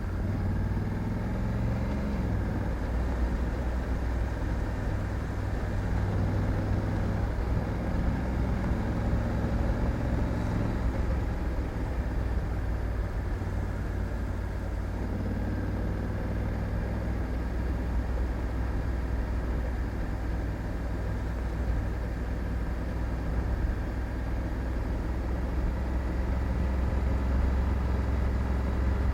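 Honda Africa Twin 1100 DCT's parallel-twin engine running steadily on the move, with continuous road and wind noise. The engine's pitch shifts slightly now and then in the first half.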